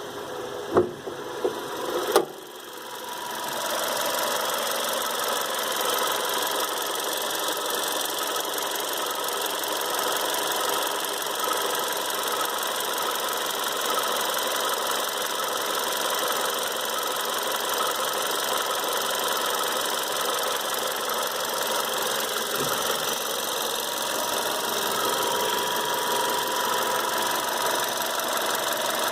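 VW Polo Mk5 engine running at a steady idle near the accessory belt, with a faint steady whine in it: the subtle strange noise the owner hears from the belt area. A few sharp knocks in the first two seconds, after which the sound grows louder and settles.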